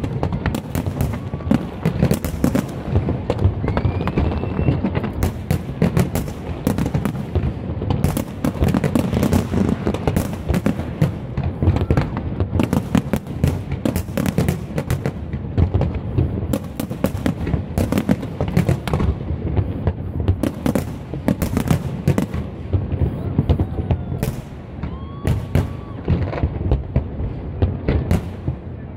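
Aerial fireworks display: a dense, continuous barrage of sharp bangs in quick succession over a steady low rumble of booming shells.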